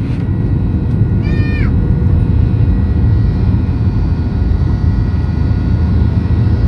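Boeing 737-800 cabin noise: the loud, steady roar of the CFM56 jet engines and airflow heard from inside the cabin, with faint steady whine tones over it. A short high pitched sound that dips at its end cuts in about a second in.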